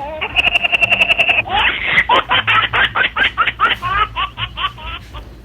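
High-pitched giggling laughter: a held squeal, then a quick run of rhythmic giggles that fades out near the end.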